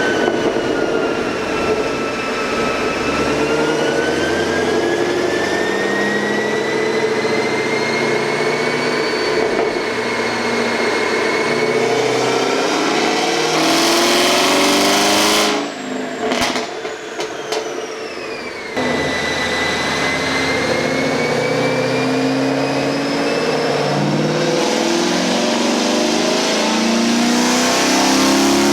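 Sixth-generation Camaro V8 with an LT2 intake manifold, long-tube headers and a ported throttle body, run hard under load with a steady engine note and a whine climbing slowly in pitch. About fifteen seconds in, it drops off for about three seconds, the pitch falling. It then picks up and climbs again.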